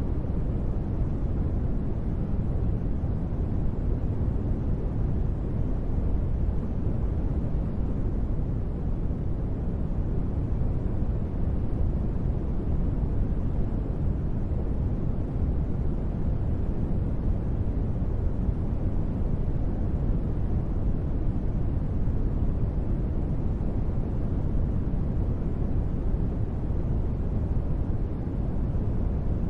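Steady, deep rumbling noise with little hiss in the highs, unchanging throughout: a synthetic ambient noise bed for sleep and relaxation.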